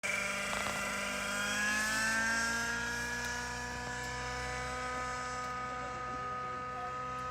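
Engine-powered RC helicopter running: a steady engine-and-rotor whine whose pitch drops over the first two seconds, then holds steady.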